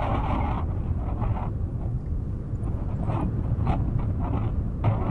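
Wind buffeting the microphone: a steady low rumble with irregular louder gusts.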